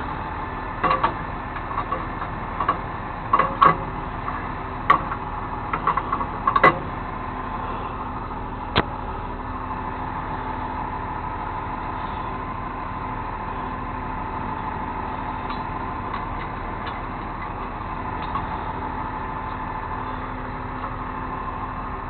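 Truck engine idling steadily, with a run of sharp clanks and knocks during the first several seconds.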